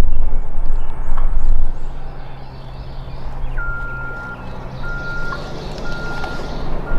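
Motor vehicle engine running with a heavy low rumble that eases off about two seconds in. Then an electronic beep repeats on one pitch about once a second, like a reversing alarm.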